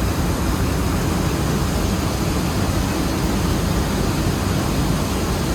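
Rice mill machinery running, a steady loud rushing drone strongest in the low end, with no clear beat or individual knocks.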